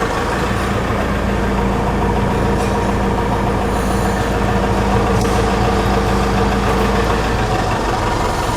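Mitsubishi Fuso Canter truck's engine running steadily at idle. An extra steady low hum sits over it from about half a second in until about seven seconds.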